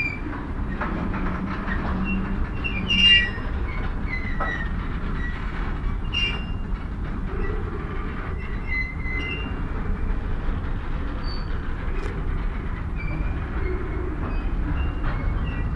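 Freight train arriving in a yard: a steady low rumble of the rolling cars, with short high-pitched wheel squeals from the rails coming and going, the loudest about three seconds in.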